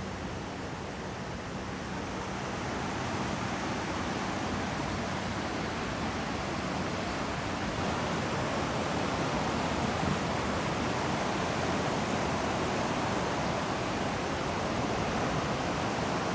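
Fast creek water rushing around and through an ice jam: a steady, dense rush that grows a little louder over the first few seconds.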